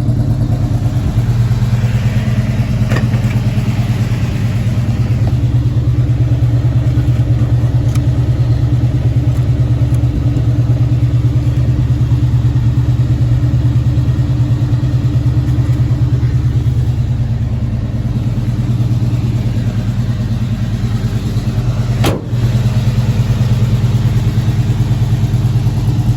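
1977 Chevrolet K5 Blazer engine idling steadily, with a single sharp click near the end.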